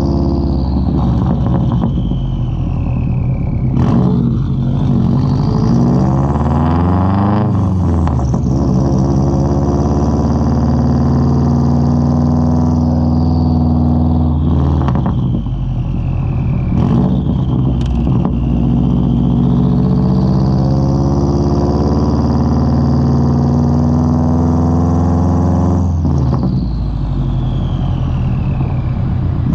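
2003 Subaru WRX's turbocharged flat-four running through a Tomei straight-pipe exhaust while driving: a loud rumble whose pitch rises and falls with the throttle and gear changes, with a few sharp cracks along the way.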